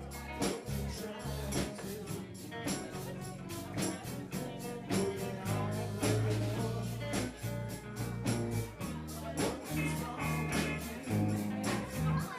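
Live band playing a funk groove with a prominent moving bass line, drums keeping a steady beat, and guitar.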